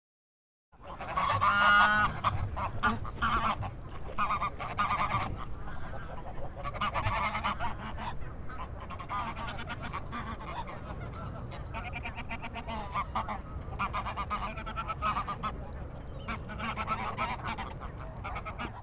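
A group of waterfowl calling over and over, loudest about a second or two in, over a steady low rumble. The recording starts just under a second in and cuts off abruptly at the end.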